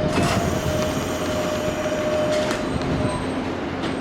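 Nankai electric commuter train running slowly into the station and braking, a low rumble with a steady high whine that stops about two and a half seconds in.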